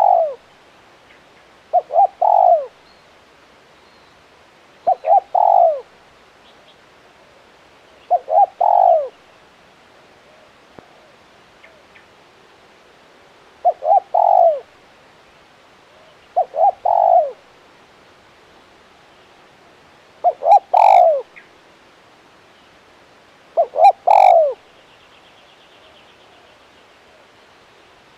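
Spotted dove cooing: eight matching phrases, each two or three short notes running into a longer coo, repeated every three seconds or so, with a longer pause near the middle.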